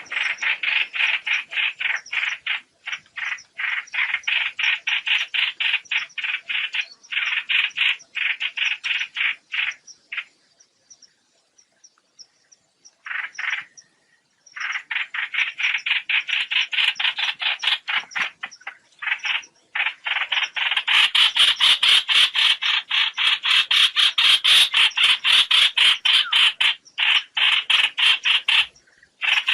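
Trao trảo bird calling its flock: long runs of fast, evenly repeated chattering notes, about five or six a second, broken by short pauses and a longer lull around the middle, then louder toward the end. A flock-calling recording of the kind played to lure birds into nets.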